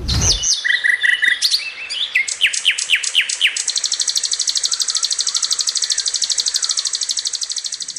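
White-rumped shama singing: a few varied clear whistles and downward-sweeping notes, then from about three and a half seconds in a long, very rapid run of repeated high notes, the 'shooting' burst of a shama in full song.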